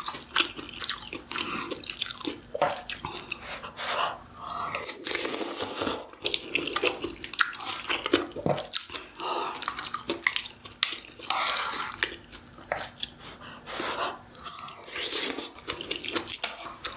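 Close-miked eating: a person chewing and biting mouthfuls of food, with irregular small clicks and mouth noises.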